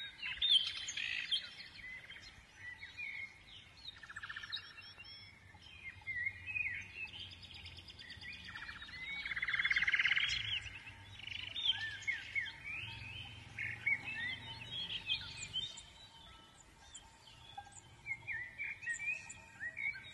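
Several birds chirping and calling, with many short up-and-down whistled notes, and a louder rapid trill about halfway through.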